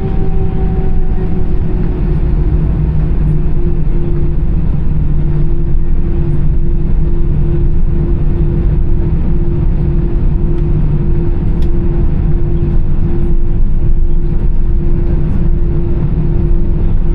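CFM56 turbofan engines of an Airbus A320 running at idle during taxi, heard from inside the cabin. It is a steady low rumble with a constant hum, whose pitch settles slightly lower in the first second or two.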